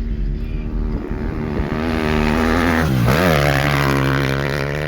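Husqvarna dirt bike engine running at speed, its pitch dropping sharply and climbing back about three seconds in, then holding steady.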